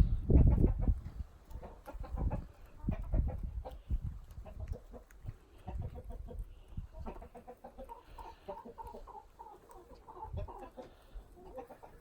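Chickens clucking, with a run of short, repeated calls through the second half. Loud low thuds come in the first couple of seconds.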